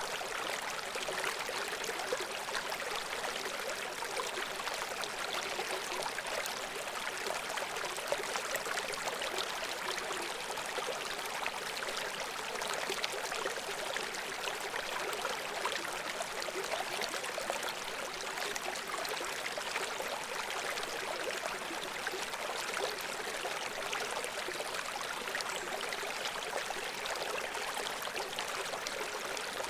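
Shallow brook babbling steadily over rocks, an even rush of water with fine trickling and gurgling.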